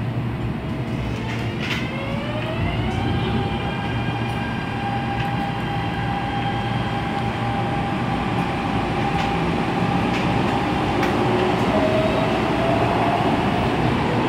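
Inside a stationary MTR Tung Chung line A-Train car: the train's electrical equipment hums steadily. About two seconds in, a whine rises in pitch and then holds steady, and a second whine rises near the end.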